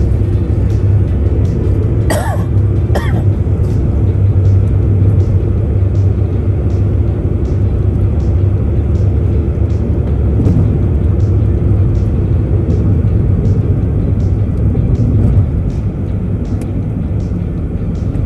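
Steady low road and engine rumble inside a moving car, with two short coughs about two and three seconds in.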